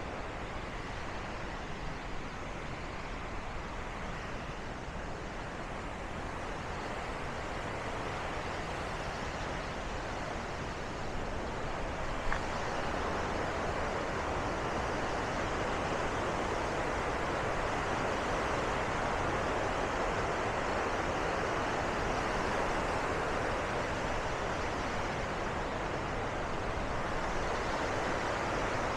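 Steady rush of water pouring over Bow Falls on the Bow River, growing louder about twelve seconds in.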